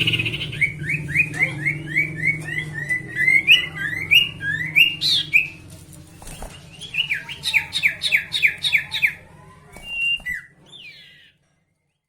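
A sirtu songbird singing in full, rapid song: quick runs of short, rising chirped notes, several a second, in phrases over a low background hum. The song stops a little before the end.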